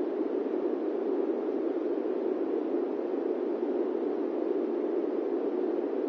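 Airplane cabin noise: a steady, deep, even hiss with no changes or distinct events.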